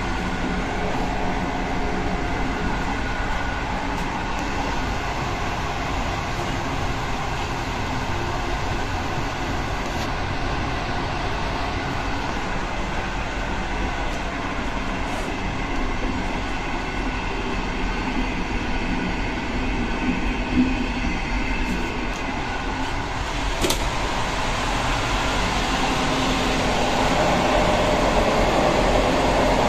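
Passenger train running at speed, heard from inside the carriage: a steady rumble of wheels on the rails, with one sharp click about three-quarters of the way through, and the noise growing a little louder near the end.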